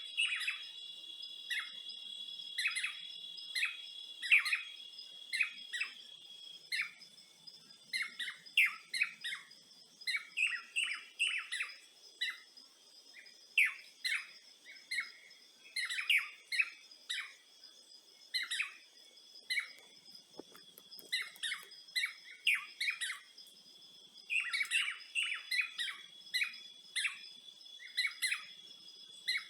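Birds chirping in quick, repeated short notes, with a steady high insect trill underneath.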